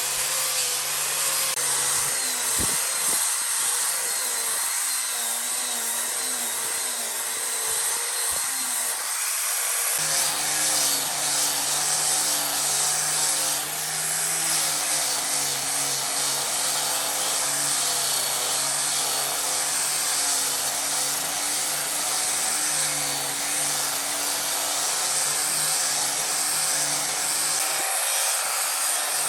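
Handheld power tool running continuously against wood, its motor pitch wavering as the load changes, with the tone filling out lower about ten seconds in.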